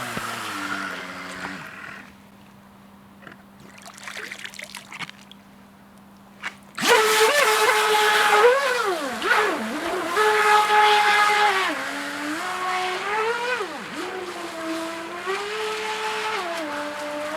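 3D-printed RC jet boat's motor whining as it slows to a stop about a second and a half in. After a few quieter seconds with a faint steady hum, it starts again about seven seconds in and runs loudly, its pitch stepping and gliding up and down as the throttle changes.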